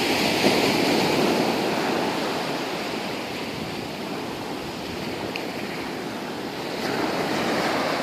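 Ocean surf washing onto a beach: a steady rush of breaking waves that eases a little in the middle and swells again about seven seconds in.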